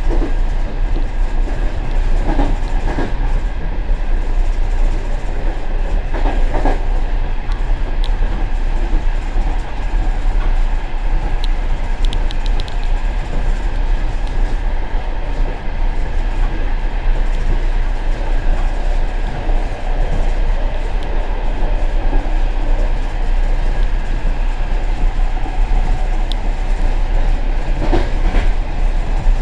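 Passenger express train running on the rails, heard from inside the tail vestibule of the rear car: a steady rumble of wheels and car body. A few knocks and a short run of rapid ticks come through from the wheels.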